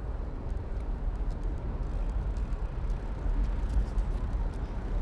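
Steady low rumble of wind buffeting the microphone on a moving bicycle, with rolling noise underneath and a few faint light clicks.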